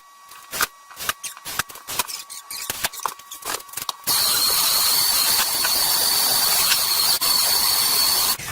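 A run of sharp clicks and knocks. About four seconds in, a blower starts: a loud, steady rush of air with a high whistle, blowing drywall dust. It cuts off abruptly just before the end.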